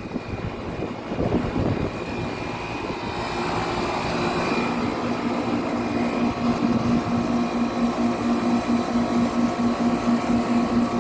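1995 Tempstar 3-ton central air conditioner's outdoor unit running: Copeland reciprocating compressor and condenser fan. Wind rumbles on the microphone for the first couple of seconds, then a steady hum with a regular pulsing comes up about three seconds in.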